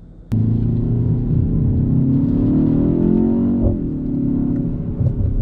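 BMW X1 M35i's turbocharged 2.0-litre four-cylinder engine pulling under acceleration, heard from inside the cabin. It cuts in suddenly, rises in pitch for a second or two, then drops back about three and a half seconds in.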